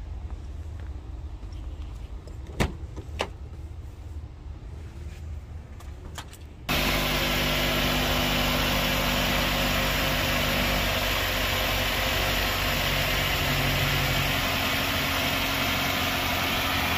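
Two sharp clicks, then, from about a third of the way in, a car engine idling steadily, heard close up in the open engine bay. The car is running on a battery whose corroded terminals have just been cleaned.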